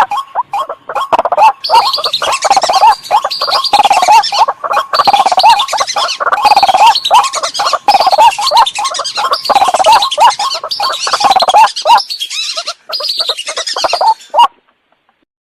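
Waterbird lure calls played from a recording: loud, dense, rapidly repeated calls that stop suddenly near the end.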